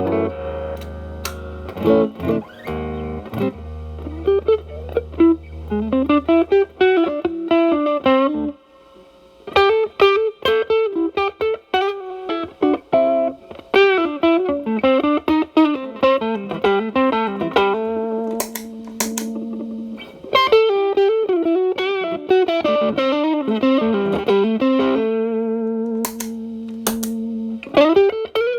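Electric guitar (Telecaster) played through a Xotic BB overdrive pedal into a Marshall Valvestate's clean channel, the drive cleaned up to a light crunch. It opens with ringing chords, pauses briefly about eight seconds in, then plays blues-style single-note licks with string bends and held two-note stops.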